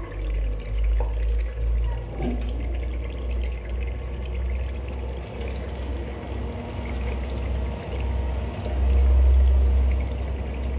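Beef frying in oil with spice mix in an open aluminium pressure cooker, sizzling and crackling as a wooden spoon stirs it, over a steady low rumble.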